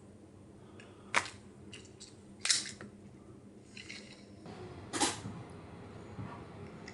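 A few sharp clicks and knocks of handled hard objects, three louder ones about a second, two and a half and five seconds in, with fainter ticks between.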